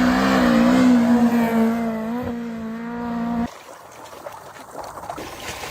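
A motor running at a steady, fairly high pitch with a slight waver, which cuts off abruptly about three and a half seconds in. Quieter noise with a few light knocks follows.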